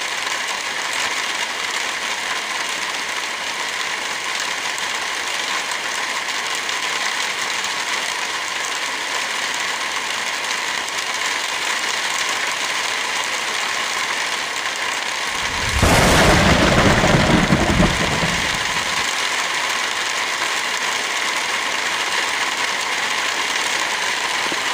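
Heavy rain falling steadily, a dense even hiss. About two-thirds of the way in, a deep rumble swells over it for about three seconds, then fades back into the rain.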